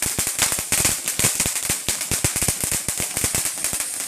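Consumer fireworks crackling: a rapid, uneven run of sharp pops, many each second, over a steady hiss.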